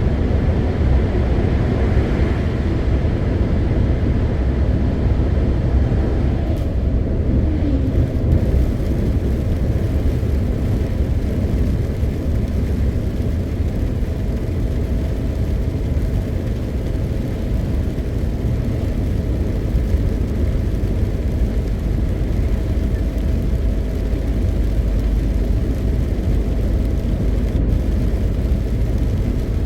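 MAN TGX 520 truck under way: a steady low diesel engine drone with tyre and road noise. A short rising note comes in about seven seconds in.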